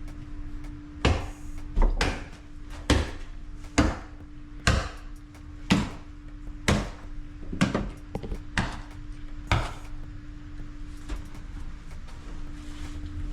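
About nine hammer blows, roughly one a second, each a sharp knock with a short ring, over a steady low hum. They stop a few seconds before the end.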